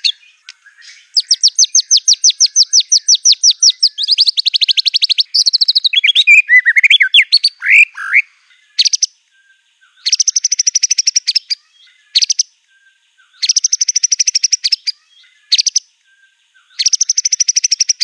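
White-rumped shama singing: long fast trills of rapidly repeated high notes, a few swooping whistled notes near the middle, then short bursts of dense rapid trilling with pauses between them.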